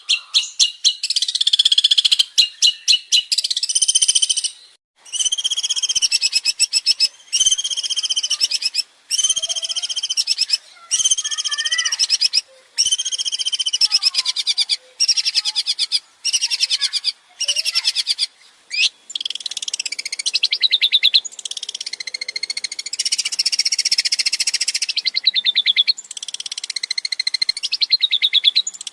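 Long-tailed shrike (cendet) singing: a string of loud, fast-pulsed, rattling phrases, each under a second long with short breaks between them. In the last third the phrases run together more closely and vary more.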